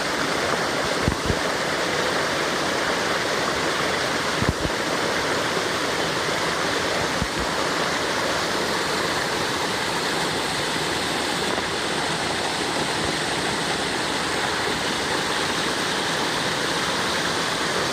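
Sekumpul waterfall's water crashing down in a steady, even rush, with a few brief low bumps in the first several seconds.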